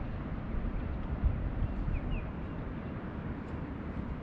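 Outdoor wind rumbling on the microphone as a steady low noise, with a small bird giving two short falling chirps about two seconds in.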